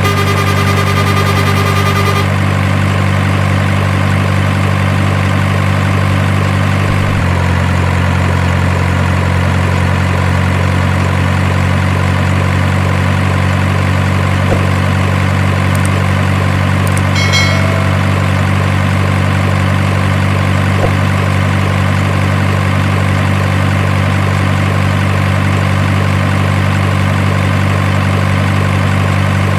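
Steady low engine idling drone, like a heavy truck's idle, its pitch shifting slightly once about seven seconds in. A short high tone sounds in the first two seconds, and a brief chirp of tones comes near the middle.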